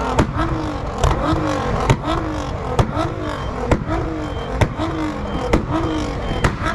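A car engine blipped repeatedly, about once a second, each rev rising and falling in pitch with a sharp crack from the exhaust: a pops-and-bangs exhaust.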